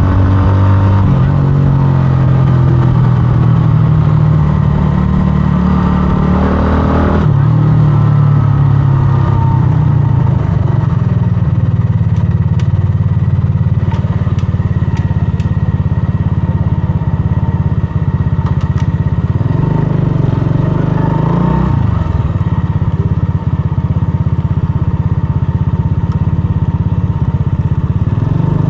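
125cc scrambler motorcycle engine running while riding. The revs climb and drop suddenly about seven seconds in at a gear change, then rise and fall again near the three-quarter mark.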